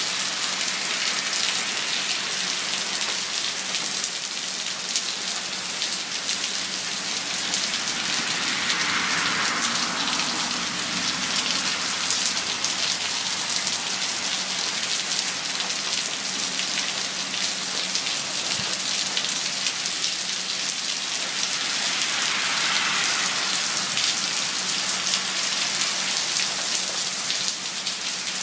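Steady rain falling, a dense even patter of drops hitting surfaces.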